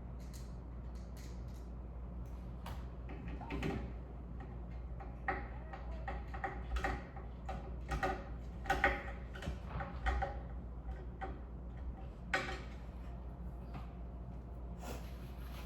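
Scattered clicks, taps and light clinks of screws and ceiling-fan mounting hardware being handled and fitted, bunched in the middle, over a steady low hum.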